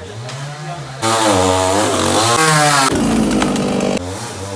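A small engine revving up and down several times, loudest from about one second in to about four seconds in.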